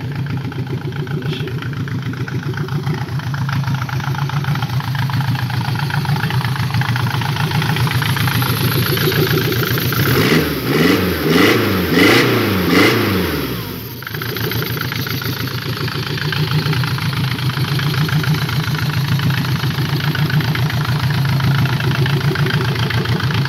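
Mercedes-Benz OM604 four-cylinder diesel with a mechanical injection pump idling steadily; about ten seconds in it is blipped several times, the pitch rising and falling, then it drops back to idle. The owner judges it to be running normally.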